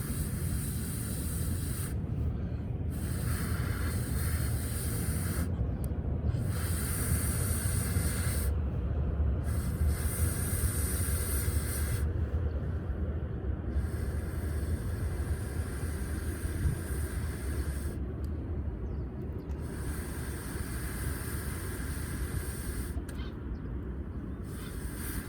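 Air being blown repeatedly into a smouldering fire of damp firewood: a hiss of one to three seconds about every three seconds, over a steady low rumble, as the fire is coaxed to catch.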